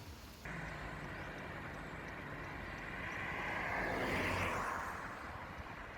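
Road traffic: a vehicle passes, its noise swelling about three to four seconds in and fading again.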